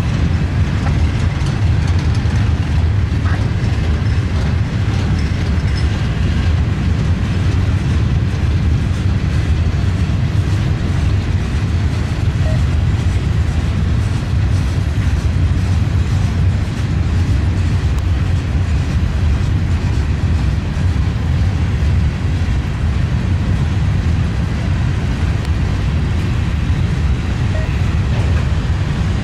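Long freight train's cars, open-top and covered hoppers, rolling steadily past: a continuous low rumble of wheels on rails.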